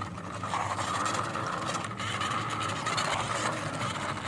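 Small plastic wheels of a hand-pushed toy airplane rolling along a rough concrete wall: a steady grinding rattle that starts about half a second in.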